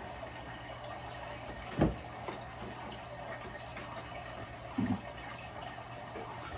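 Faint steady room noise with a low hum, broken by a sharp click a little under two seconds in, a couple of lighter clicks, and a brief low knock about five seconds in.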